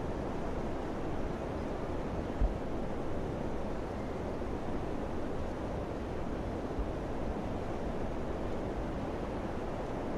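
Steady wind blowing as an even rushing noise, with low rumbling from gusts hitting the microphone. There is one brief low thump about two and a half seconds in.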